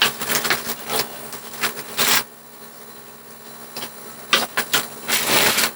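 Close clicks and crackling of crispy chicharong bulaklak (deep-fried pork intestine) being handled with utensils on a plate. A run of sharp clicks comes first, a quieter pause follows, and a stretch of crackling comes near the end.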